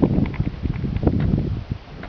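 Wind buffeting the microphone in uneven gusts and rumbles, with some rustling.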